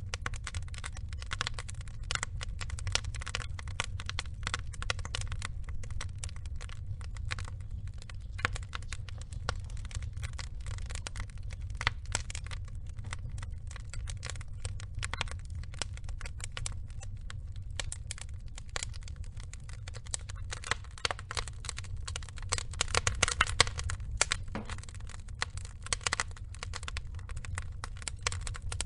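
Burning wood logs crackling and popping: a steady, irregular stream of sharp snaps over a low, steady rumble, with a denser flurry of louder pops about three-quarters of the way through.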